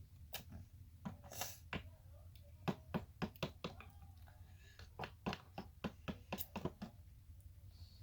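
A spoon stirring slime in a bowl, knocking and tapping against the bowl's side in quick, uneven strokes, with a brief swish now and then.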